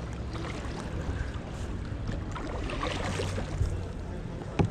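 Kayak paddle strokes splashing in canal water over a steady low rumble, with a single sharp knock near the end.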